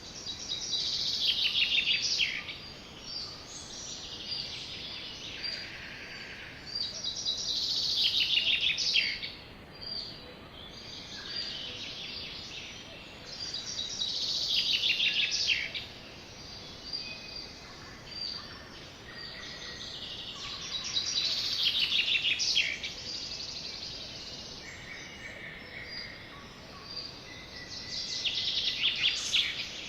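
A sparrow singing the same short song over and over, about every six or seven seconds, each phrase ending in a fast trill.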